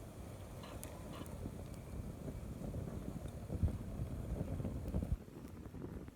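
Wind buffeting the microphone in gusts, a low rumble, with a few faint sharp ticks.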